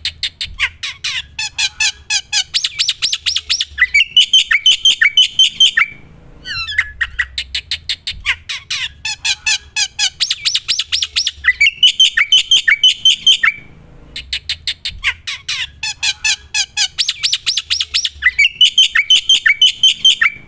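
Black-winged myna (jalak putih) singing loudly and continuously. The same song phrase comes three times: a quick string of sharp, harsh notes, then a run of downslurred whistles.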